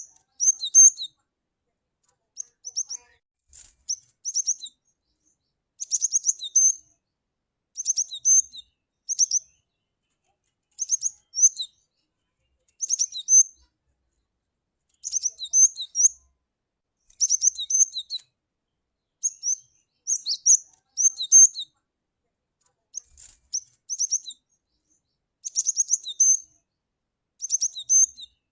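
Cinereous tit (glatik batu) calling: short clusters of high, sharp chirps that come again every second or two, with brief silences between.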